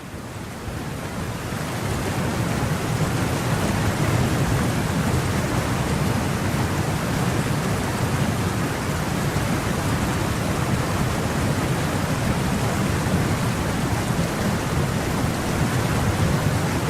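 Steady heavy rain and wind of a storm, an even noise with no distinct strikes, fading in over the first second or two.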